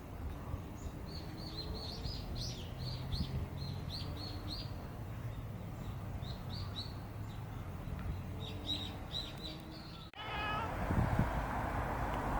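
Small birds chirping in quick, short, high falling calls, several a second in bursts. After an abrupt cut near the end, a cat gives a short meow over louder background noise.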